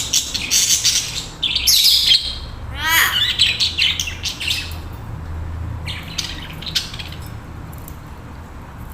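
Pet budgerigars chirping and warbling: a busy run of quick high chirps, a sweeping call about three seconds in, then sparser chirps that thin out toward the end.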